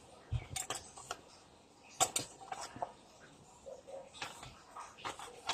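Small objects being handled and set down: irregular light clicks, taps and knocks, a few sharper ones about two seconds in and near the end.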